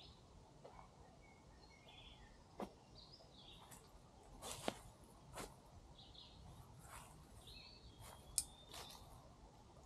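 Faint bird chirps over quiet outdoor ambience, with a few sharp clicks, the loudest about halfway through and again near the end.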